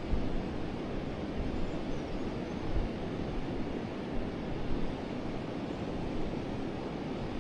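Forest river flowing, a steady rush of water with a few low rumbling bumps.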